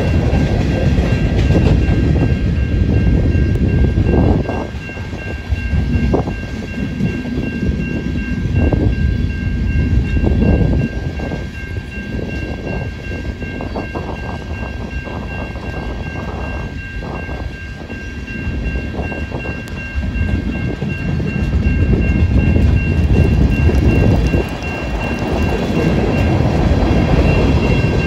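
Freight cars rolling past close by, steel wheels rumbling and clanking over the rails, louder again near the end. A grade-crossing bell rings steadily over it.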